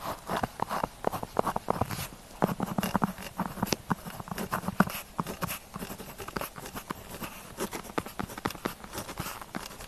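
Pen tip writing on paper: dense, irregular scratching strokes and small ticks of the nib.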